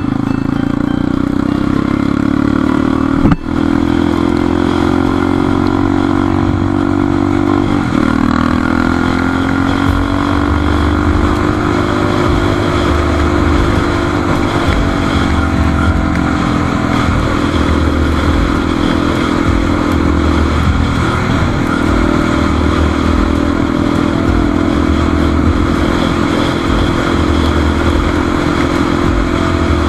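Motorcycle engine running under way, its pitch rising and falling as the bike speeds up and eases off, with a sharp knock about three seconds in.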